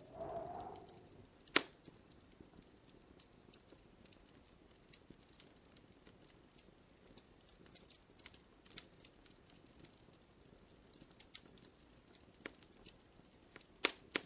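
Wood fire crackling in a fireplace: a steady scatter of small snapping clicks, with two louder pops, one a little over a second in and one near the end, and a short muffled whoosh at the very start.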